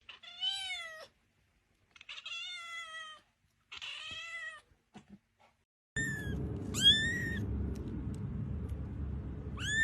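Cat meowing three times in drawn-out, arching meows. Then, over a steady background hum, come three short, high, rising calls.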